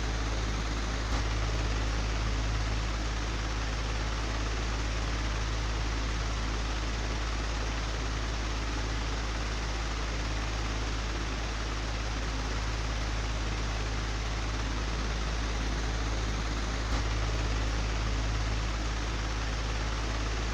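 Old, broken electric fan running steadily: an even whooshing hiss over a deep, constant hum, with a faint click about a second in and another near the end.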